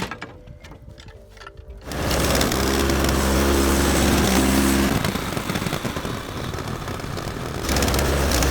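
Faint music, then about two seconds in the Frontier OS18 portable bandsaw mill starts up loud, its small gas engine and band blade running steadily; the level eases a little around five seconds in and comes back up near the end.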